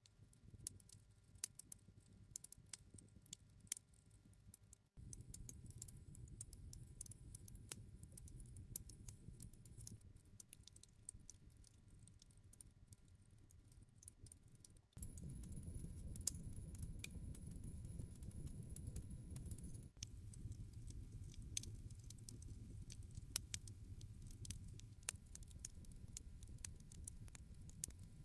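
Wood fire crackling: irregular sharp pops and snaps over a low rumble of burning, faint throughout, with the level stepping up and down abruptly a few times.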